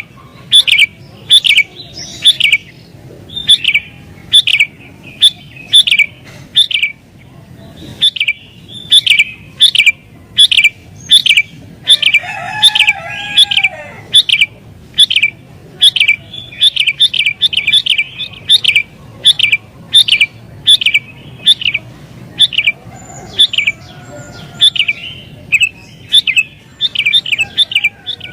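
Sooty-headed bulbul calling in an excited, agitated way, the kind of calling used to provoke rival bulbuls. It repeats short, sharp chirps about twice a second, with a busier burst of mixed notes about halfway through.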